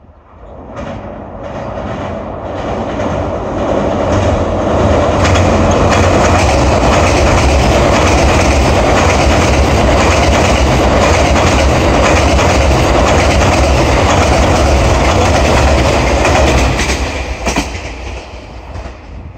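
JR East E001 series "TRAIN SUITE Shiki-shima" sleeper train passing over the Shiraoi River bridge, its wheels rumbling and clattering on the rails. The sound builds over the first few seconds, stays loud with a deep rumble for about twelve seconds, then fades as the train moves away, with a few sharp clicks near the end.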